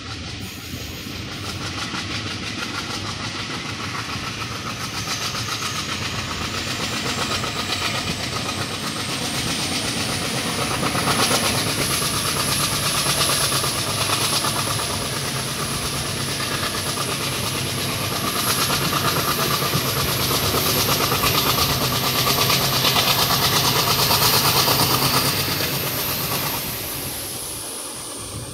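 Passenger train running at speed, heard from an open coach doorway. The wheels rumble steadily on the rails and air rushes past, over a steady low drone. A thin high whine slowly rises in pitch, holds, and falls away near the end as the sound eases off.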